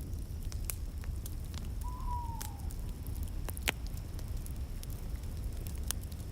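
Wood fire burning in a fireplace: a steady low rumble of flames with scattered sharp crackles and pops, and a short faint whistle, falling slightly in pitch, about two seconds in.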